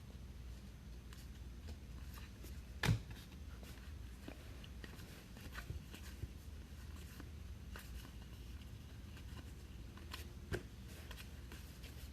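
Baseball trading cards being handled by hand: faint rustling and light clicks of cards sliding over one another, over a low room hum, with a sharper tap about three seconds in and a smaller one near ten seconds.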